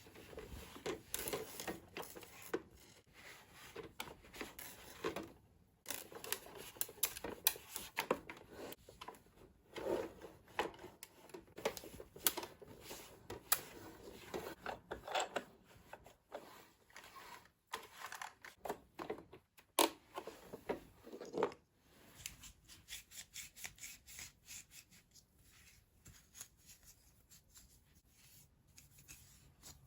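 Close-up handling noises: quick rubbing and scraping with light clicks of small hard parts, fainter and more ticking after about twenty seconds.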